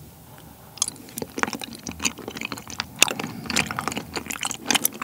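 Close-miked chewing of a mouthful of sotteok-sotteok, skewered sausage and chewy rice cake in sweet-spicy sauce: a run of irregular wet clicks and squishes starting about a second in.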